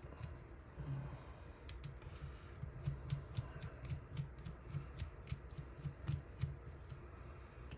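Small sharp metal clicks and taps, irregular at about two or three a second, from tools working in a dimple lock cylinder whose plug is stuck and won't turn back.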